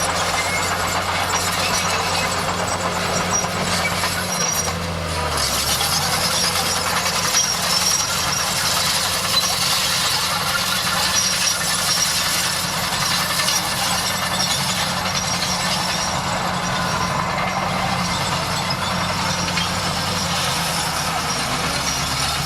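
Bulldozer's diesel engine running steadily under a dense metallic clatter, its engine note dipping briefly about four to five seconds in.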